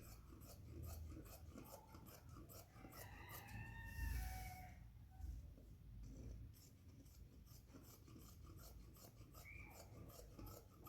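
Faint run of small crisp snips, typical of scissors cutting cloth. About three to four seconds in, brief high pitched sounds, like a short call, rise over the snips.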